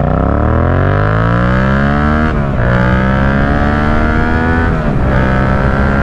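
Yamaha MT-07's parallel-twin engine through an Akrapovic carbon full exhaust, accelerating hard with its pitch rising. There are two quick upshifts, about two and a half and five seconds in, and it pulls on after each.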